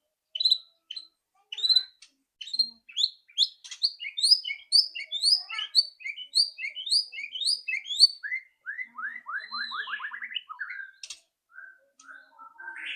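White-rumped shama singing: a fast run of clear whistled notes, then about nine seconds in a quick rattling series of short notes, the shama's chattering call.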